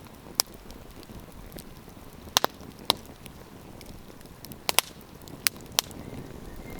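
Campfire wood crackling, with about eight sharp pops, some in quick pairs, over a low steady hiss of the burning fire.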